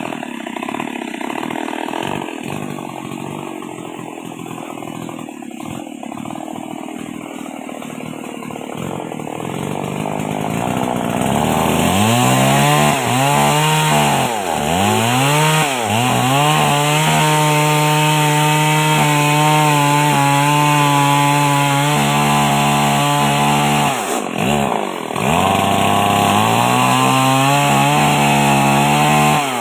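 Old two-stroke chainsaw running at low speed, then revved up and down a few times about a third of the way in and held at high, steady revs, dipping briefly near the end before climbing again, while ripping a coconut palm trunk lengthwise.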